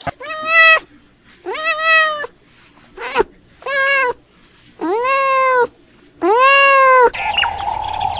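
A cat meowing six times, each meow arching up and then down in pitch, the third one short. About seven seconds in the meows stop and the sound changes abruptly to a steady tone with background noise.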